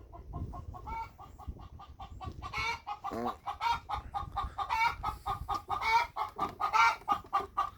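A hen cackling: rapid repeated clucks, about four or five a second, growing louder about a third of the way in, with longer squawks mixed in. This is a hen's noisy fuss before laying an egg.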